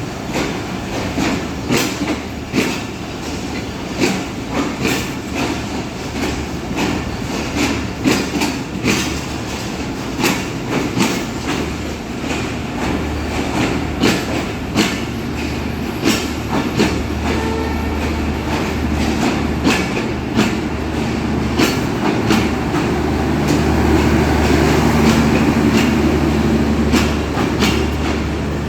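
Rupsha Express passenger train rolling along the track, its wheels clicking over rail joints in repeated sharp clacks over a steady low rumble. The rumble grows louder towards the end.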